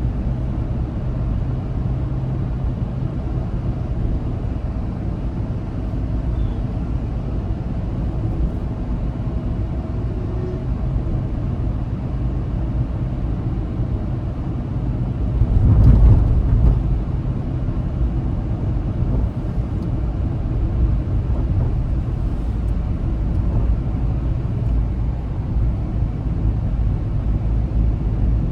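Car driving at highway speed: a steady low rumble of engine and road noise. It swells louder for a second or two about halfway through.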